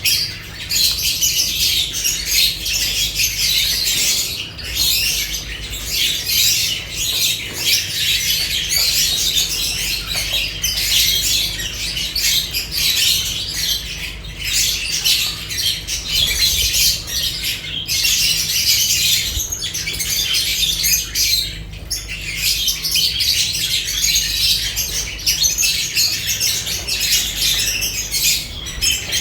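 A flock of lovebirds chattering and squawking continuously, many shrill calls overlapping without a break.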